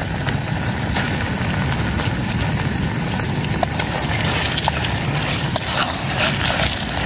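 Shrimp frying in a pan over a camp fire or stove: a steady sizzle with scattered crackles and spits that grow busier in the second half, over a steady low rumble.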